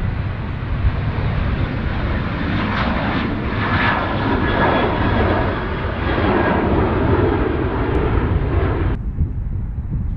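Airliner engines running as the aircraft passes along the runway, a rushing noise with a steady whine that swells for several seconds over a low wind rumble on the microphone. The sound cuts off suddenly about a second before the end.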